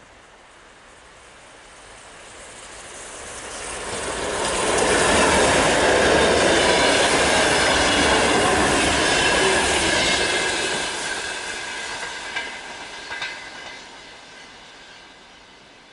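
A train passing: its rumble builds over about four seconds, stays loud for about five, then fades away, with a few sharp clicks from the wheels over the rails as it goes.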